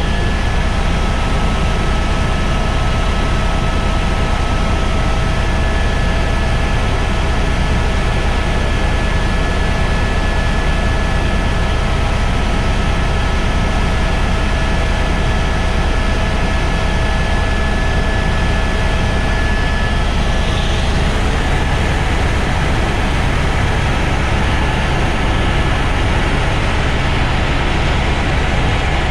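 Helicopter in flight: steady, unchanging engine and rotor noise with a faint high whine held on top.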